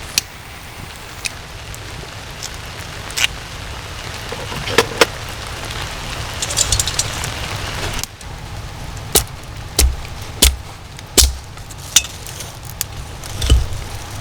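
Steady rain falling, with scattered sharp drip ticks throughout and several heavier thuds in the second half. A short spell of crackling comes around the middle.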